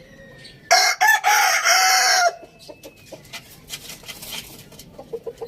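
A rooster crowing once, a loud call of about a second and a half, followed by faint clucking and pecking clicks.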